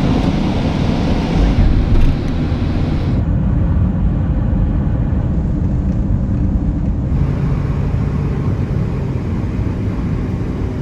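A steady, loud low rumble, with a hiss above it that drops away about three seconds in.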